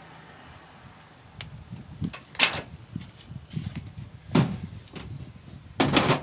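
Several sharp knocks and thumps of materials being handled and fitted. The loudest come about two and a half, four and a half and six seconds in.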